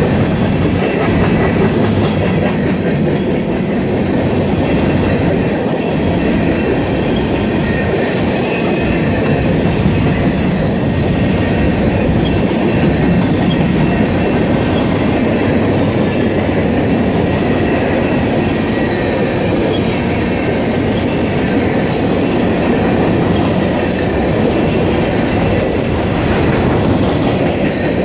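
Freight train of covered hopper cars rolling past close by: a steady rumble and clatter of steel wheels on the rail joints, with a faint high wheel squeal running under it.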